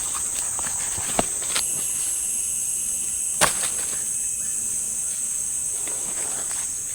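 Steady high-pitched chorus of night insects, with a second, higher insect tone joining about one and a half seconds in. Two sharp clicks, at about one second and about three and a half seconds in.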